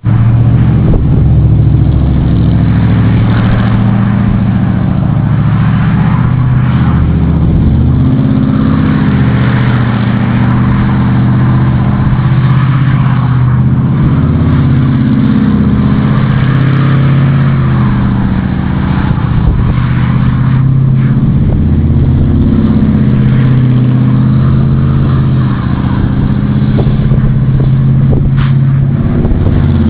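1978 Chevrolet Corvette V8 engine revving hard and continuously, its pitch rising and falling again and again as the car spins 360s in snow.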